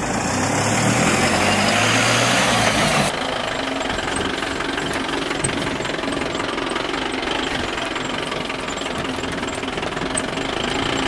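Tractor engine revving hard, its pitch rising over the first three seconds. The sound changes abruptly about three seconds in, then the engine runs on steadily.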